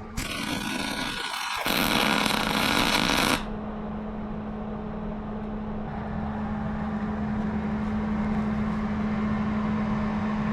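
A loud hissing noise that cuts off sharply about three and a half seconds in, followed by a steady machine hum.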